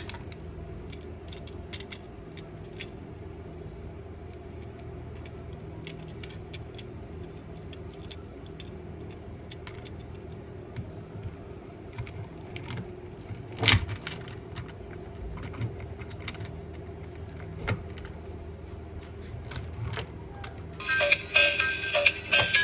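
Light, scattered clicks and clinks of small toy car parts being handled and taken apart, over a steady low hum, with one sharper, louder click about halfway through. Music comes in near the end.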